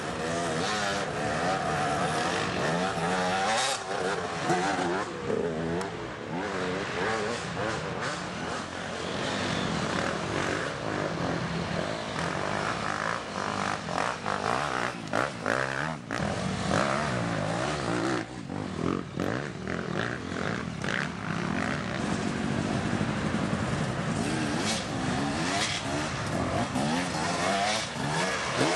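Several dirt bike engines revving and changing pitch as the racers accelerate and shift around the track, overlapping one another.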